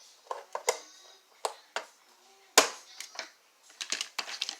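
Clicks and knocks of hard plastic toy parts being handled and fitted together, with one louder knock a little past halfway and a quick run of small clicks near the end.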